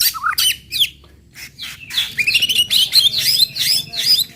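White-rumped shama (murai batu) singing a fast, varied burst of sharp chirps and whistled notes, with a short lull about a second in before a dense run of rapid notes.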